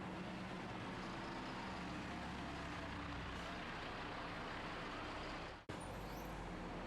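Steady road and engine noise of a moving car, with a low hum under an even rushing noise. About five and a half seconds in, the sound fades out briefly and snaps straight back.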